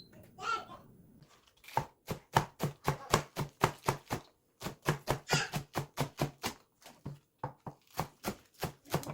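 Knife chopping on a cutting board: a run of steady, even strokes, about three or four a second, starting about two seconds in, with a couple of brief pauses.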